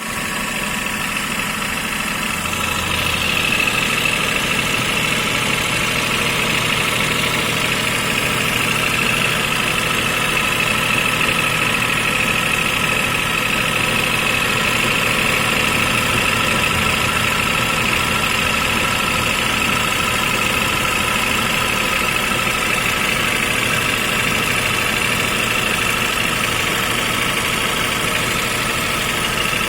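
Toyota Vitz KSP90's three-cylinder engine running steadily, with a steady high whine over it that grows stronger about three seconds in; this is the unexplained extraneous noise the owner is asking about.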